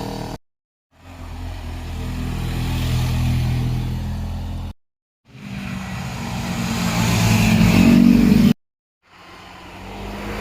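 Motorcycle engines going past one after another in three short stretches, each cut off abruptly with about half a second of silence between. In the middle stretch the engine note rises and gets louder until it stops short.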